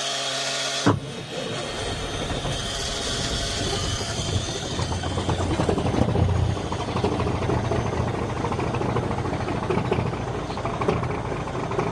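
Starter motor of a Caterpillar 3406B inline-six diesel in a 1984 Peterbilt whining as it cranks, until the engine catches about a second in. It then runs rough and uneven on a cold start at about 20 degrees.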